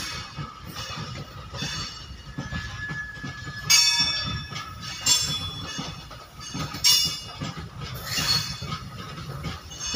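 Loaded goods train of open-top freight wagons rolling slowly past: a steady low rumble of wheels on rail, broken by short high-pitched metallic wheel screeches every second or two, the loudest about four and seven seconds in.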